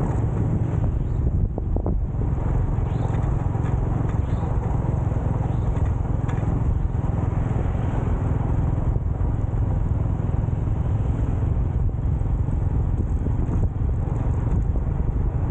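Motorcycle on the move: steady engine and road noise with wind rumbling on the microphone.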